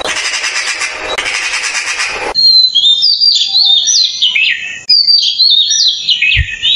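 A harsh, noisy sound that cuts off abruptly about two seconds in, followed by a songbird singing two phrases of quick, high notes that step down in pitch.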